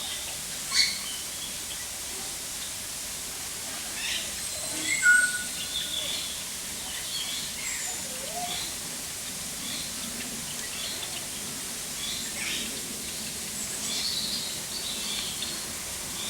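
Several birds chirping and calling in short, scattered notes over a steady background hiss, with louder calls about a second in and around five seconds in.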